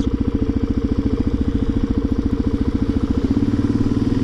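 Motorcycle engine running steadily, with an even, rapid pulsing exhaust beat.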